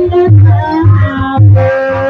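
Javanese Banyumasan ebeg (kuda lumping) music played live: deep drum beats at a steady pace under a held, wavering melodic line.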